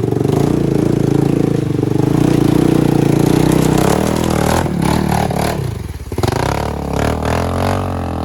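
Engine of a four-wheel-drive vehicle working hard under load on a steep climb, the revs sagging about six seconds in and then picking up again.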